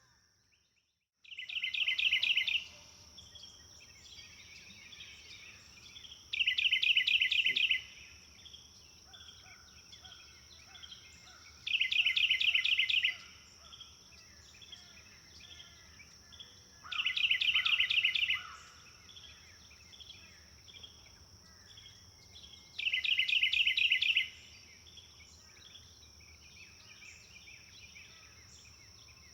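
Songbird singing a loud, rapid trilled phrase about a second and a half long, repeated five times at roughly five-second intervals, with fainter bird calls in between. A steady high-pitched whine runs underneath. The sound starts after about a second of near silence.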